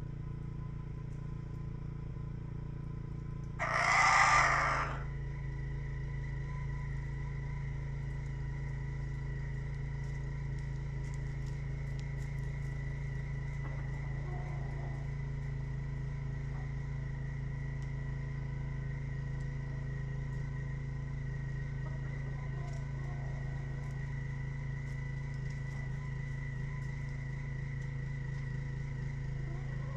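A steady mechanical hum, with one loud chicken call lasting about a second and a half about four seconds in, and a few faint clucks later.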